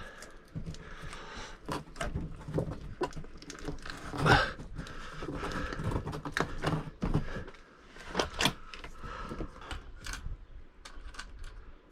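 Irregular clicks, small rattles and rustling from hands working with electrical wiring and fittings.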